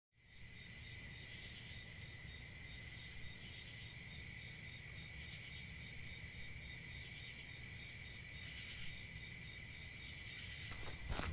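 Crickets chirring steadily in a continuous high trill, fading in at the start over a low background rumble.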